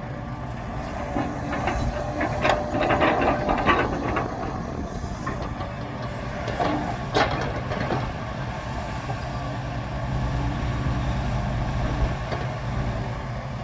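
Diesel engine of heavy earthmoving machinery running steadily, with a cluster of metal clanks and knocks in the first few seconds and another sharp knock about seven seconds in.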